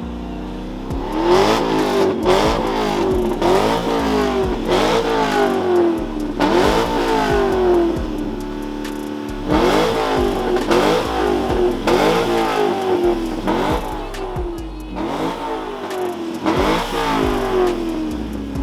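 Car engine being revved again and again: each rev climbs fast and falls back more slowly, about once a second. Around the middle it drops briefly to a steady idle before the revving starts again.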